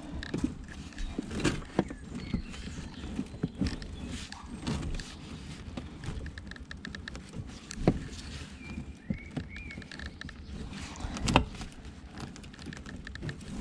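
Irregular knocks, clatters and rustles of rubble and scrap being shifted about in a skip, with two sharper knocks about eight and eleven seconds in.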